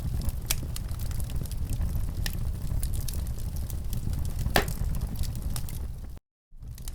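Wood fire in a fireplace crackling over a steady low rumble, with many small pops and one louder snap about four and a half seconds in. The sound cuts out completely for a split second near the end.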